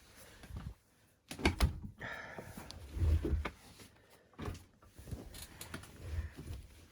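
Door of an AEG Protex Plus front-loading washing machine being opened and the load handled: a few sharp clicks and knocks, low thumps and some rustling.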